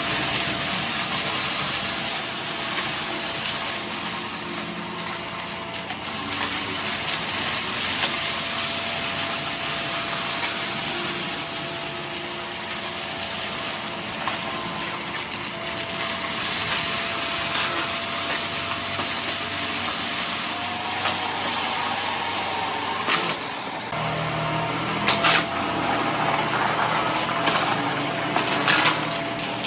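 Vacuum cleaner running steadily with a faint motor whine, its sound changing about three-quarters of the way through, with a few sharp clicks near the end as debris from the mess test is picked up.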